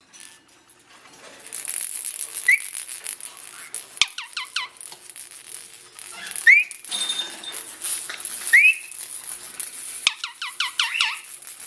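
Indian ringneck parakeets calling: single short rising squeaks a few seconds apart, and twice a quick series of falling, pitched calls.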